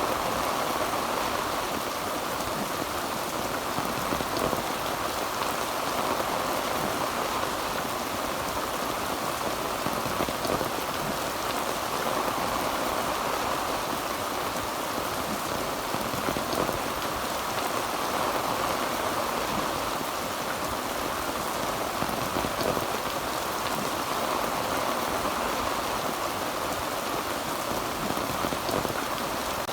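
Heavy rain falling steadily on a tin roof, a dense, even patter of drops.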